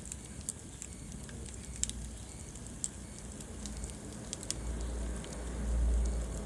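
Wood fire crackling in a fireplace, with scattered sharp pops over a steady hiss. A low rumble swells in the second half.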